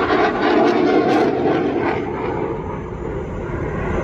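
Fixed-wing aircraft engine noise, loud, easing off slightly after about two seconds.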